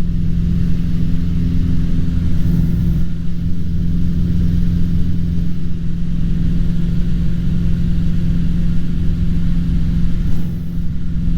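Cessna 150's Continental O-200 engine and propeller running steadily, heard from inside the cockpit as a continuous drone with a steady hum.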